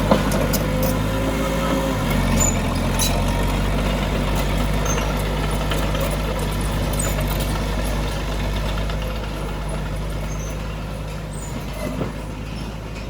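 Heavy diesel engine of earthmoving machinery running steadily, its pitch shifting about two seconds in, with a few light clanks; it fades slightly near the end.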